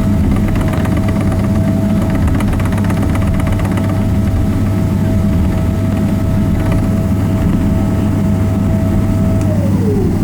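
Cabin sound of a Boeing 777-300ER with its GE90 turbofans running at low power: a steady low rumble under a constant whine that glides down in pitch near the end.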